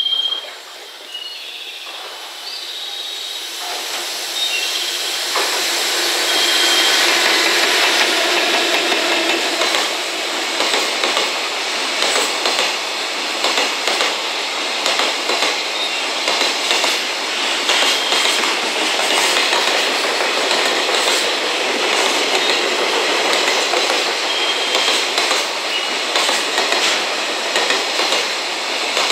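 A JR Freight container train hauled by an EF210 electric locomotive approaches and passes close by, the noise building over the first few seconds. Then the container wagons roll past at speed, with a rapid, steady clickety-clack of wheels over rail joints and occasional brief high squeals.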